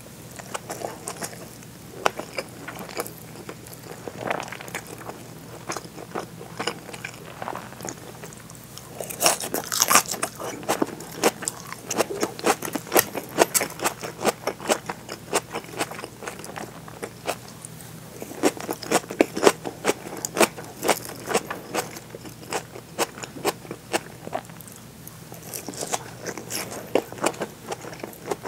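Close-miked chewing of seared bonito (katsuo no tataki) topped with green onions, with rice: fast trains of wet mouth clicks and bites that come in bursts, busiest about ten seconds in, again around twelve to fourteen seconds and nineteen to twenty-one seconds.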